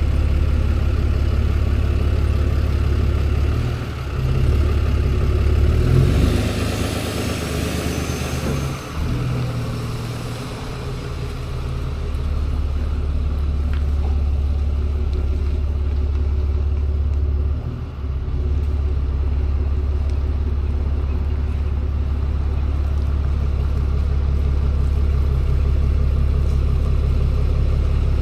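Tow truck's engine and road noise while driving, a loud steady low drone that dips briefly about four, nine and eighteen seconds in. For a few seconds near the middle a louder rushing sound with a high whine that rises and falls rides over it.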